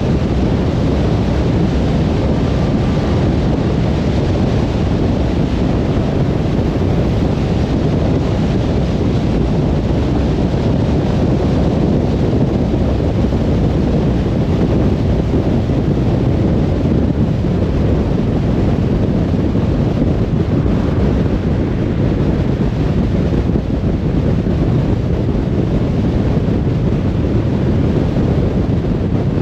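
Steady road noise of a car cruising on a motorway: tyres on the asphalt and wind rushing past, even and unchanging, with most of the sound low down.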